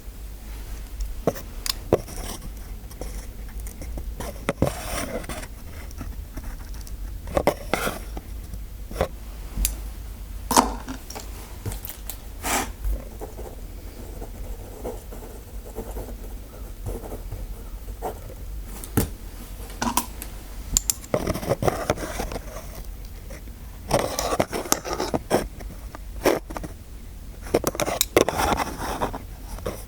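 Close-miked ASMR scraping and tapping from a dentist roleplay: irregular sharp clicks and taps between short scraping passes, which come thicker and louder through the last third.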